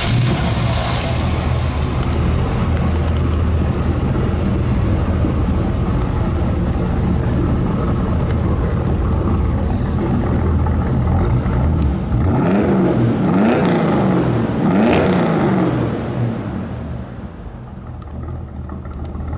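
1963 Chevrolet Impala's 327 cubic-inch V-8 idling steadily, then revved three times in quick succession about twelve seconds in before settling back to a quieter idle.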